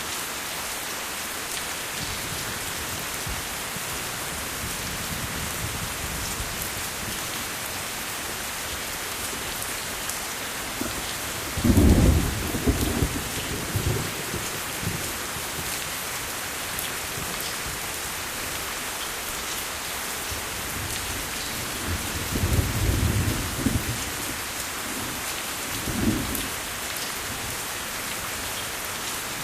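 Steady heavy rain falling, with thunder rumbling: one loud low rumble a little before halfway and two softer rumbles in the last third.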